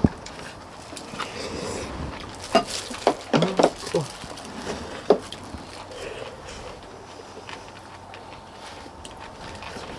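Eating noises at a shared meal: utensils knocking on bowls, in a cluster of sharp clicks from about two and a half to four seconds in and once more near five seconds.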